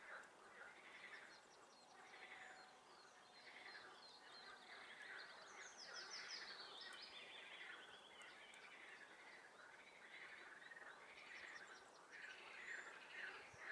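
A chorus of frogs calling in a swamp, pulsed croaks repeating about once or twice a second, faint. A songbird's high trill sounds over them in the middle.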